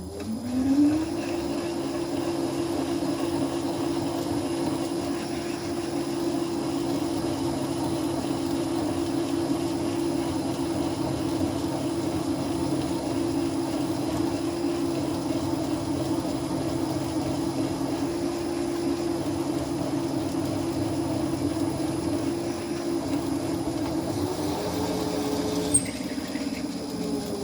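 Machine spindle motor spinning up within the first second and running at a steady pitch while drilling out or reaming a valve guide bore in an Oldsmobile V8 cylinder head. A second, higher tone joins near the end, and the pitch begins to fall as it winds down.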